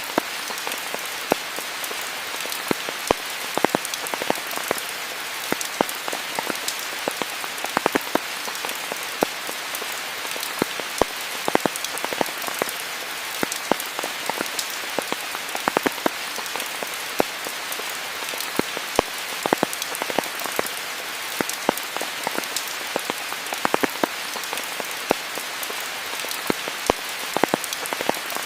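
Steady rain falling, an even hiss with many close, distinct drops striking near the microphone.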